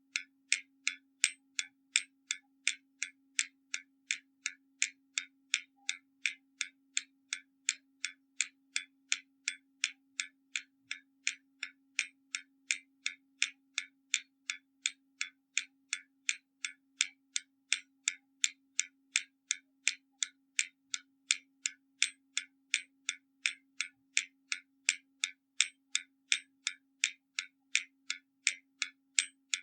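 Hermle mechanical skeleton clock ticking steadily, its escapement giving sharp, even ticks at about three a second.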